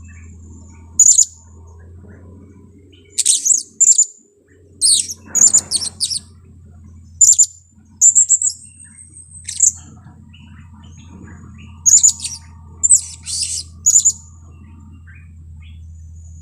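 Blue-crowned hanging parrot (serindit) calls: short, very high-pitched chirps, singly or in quick clusters, about a dozen times. A steady low hum runs underneath and drops out briefly about four seconds in.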